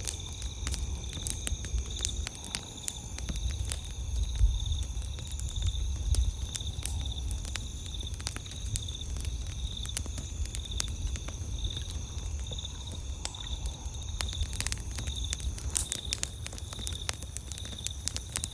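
Wood campfire crackling, with frequent sharp pops and snaps over a low rumble of the burning fire. Behind it runs a steady high chirping of night insects.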